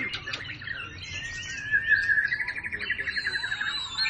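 Many caged songbirds singing at once in overlapping chirps and whistles, with a fast trill about halfway through.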